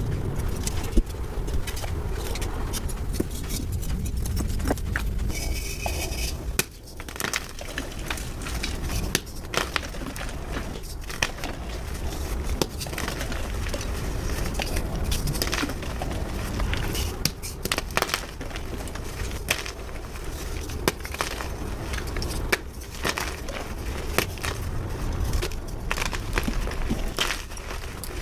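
Blocks of gym chalk being crushed and crumbled: a dense, continuous run of dry crunches and crackles, with a short break about six and a half seconds in.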